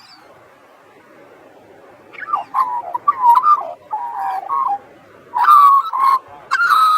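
Australian magpie carolling: a run of warbling notes that slide up and down and break off every half second or so, starting about two seconds in after a faint background hiss.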